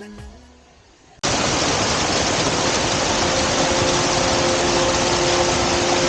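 A song fades out, and about a second in the sound cuts abruptly to the steady rushing of a waterfall pouring into its pool. Faint steady tones rise over the rush near the end.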